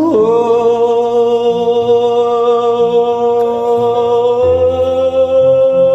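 A man singing one long wordless held note, scooping up into it at the start and lifting the pitch slightly about four and a half seconds in, over a soft backing track.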